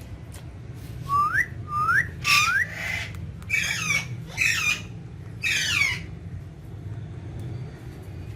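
Indian ringneck parakeet giving three short rising whistles about a second in, then four harsh screeching calls. A steady low hum runs underneath.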